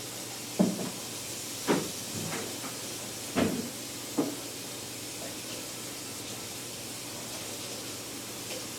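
A steady hiss with four short, soft knocks in the first half, like things being handled and set down.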